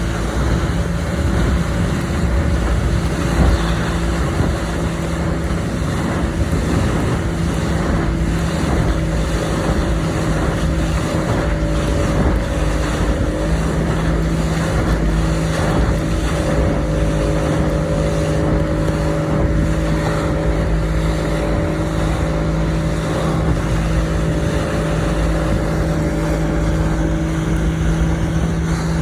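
A motorboat's engine running at a steady speed, a constant hum under the rush of wind and water as the boat moves along.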